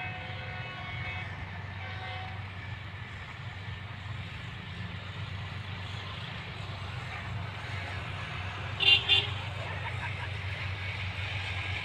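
GEU-40 diesel-electric locomotive running steadily as the train moves, a low even rumble. About nine seconds in come two short toots in quick succession.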